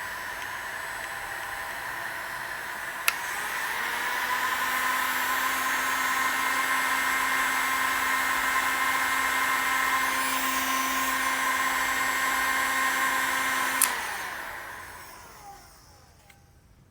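Bosch hair dryer running: a click about three seconds in and it runs louder and higher at a stronger setting, then another click near the end and the motor and fan spin down and fade out as it is switched off.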